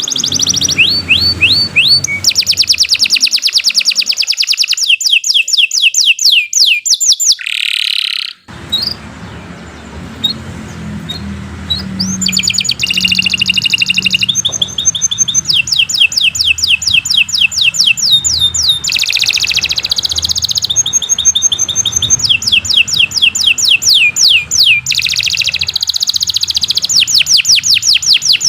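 Domestic canary singing a long, continuous song of fast trills, each a rapid run of repeated sweeping chirps that switches to a new trill every second or two. The song thins out briefly about eight seconds in, then picks back up.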